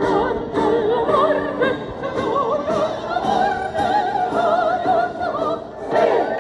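Operatic music: a classical singing voice with wide vibrato, held on long notes, over an accompaniment with a regular beat.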